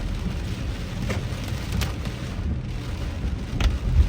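A car driving in heavy rain, heard from inside: a steady low rumble of the car and road under the hiss of rain, with a few sharp ticks.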